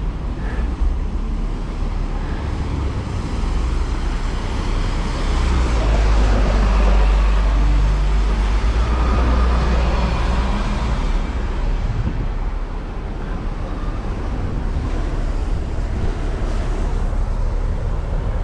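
Street traffic noise with a vehicle passing close by: a low engine rumble that builds about a third of the way in, peaks, and fades again, over steady road noise.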